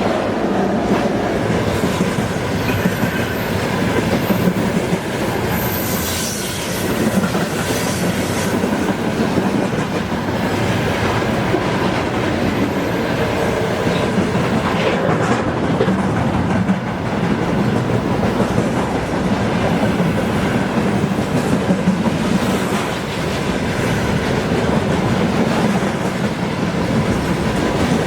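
Freight train wagons rolling past on the rails, a steady heavy rumble with continuous clickety-clack from the wheels over rail joints.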